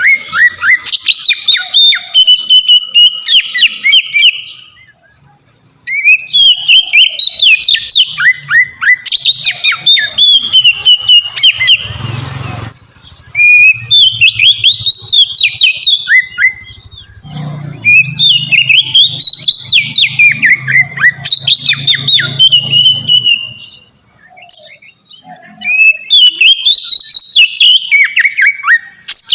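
Oriental magpie-robin (kacer) singing loud, long, varied phrases of rapid whistles and trills, broken by short pauses about five seconds in and near the end.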